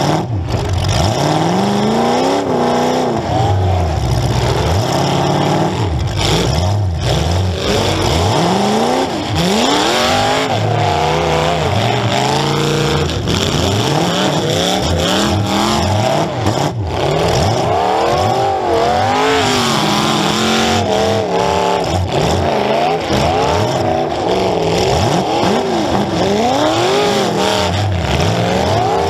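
Demolition derby car's engine revving hard over and over, its pitch constantly climbing and dropping as the driver accelerates and backs off, with a few sharp bangs of collisions in between.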